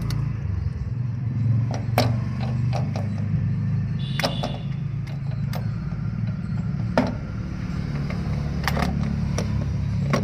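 Tractor diesel engine running steadily at idle, with a few sharp metallic clinks scattered through it.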